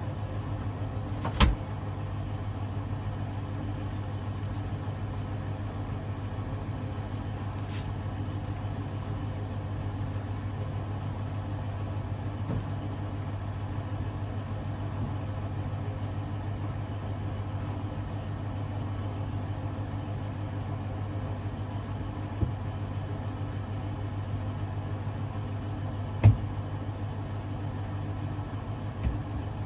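Hoover DXOA610AHFN-80 washing machine running mid-cycle with a steady hum, broken by a few sharp knocks, the loudest about a second and a half in and again near the end.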